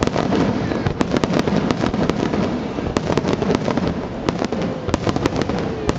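Nagaoka aerial fireworks bursting in quick succession: many sharp bangs and crackles over a continuous low rumble.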